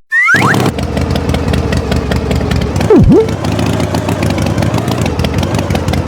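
An engine running steadily with a fast even pulse, starting just after a short falling whistle. About three seconds in, a loud swooping tone dips down and comes back up.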